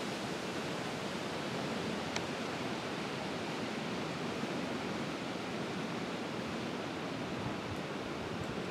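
Steady, even hiss of tropical-storm weather, wind and rain, with no gusts or breaks and a faint tick about two seconds in.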